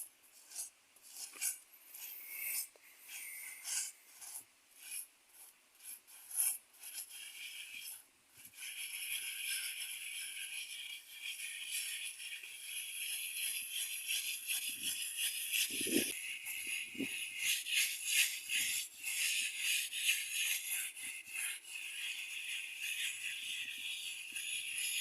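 A hand tool scraping and rubbing over fresh cement: short separate strokes at first, then steady rasping from about a third of the way in, with a few dull knocks a little past the middle.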